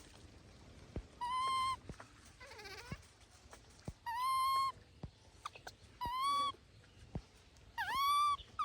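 Baby monkey calling: four high, clear coos of about half a second each, steady in pitch, with a fainter wavering call between the first two. Sharp little clicks are scattered in between.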